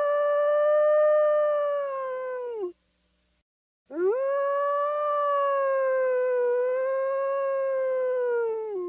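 Wolf howling: a long howl ends with a drop in pitch about two and a half seconds in, then after about a second of silence a second long howl swoops up, holds steady with a slight waver, and falls away at the end.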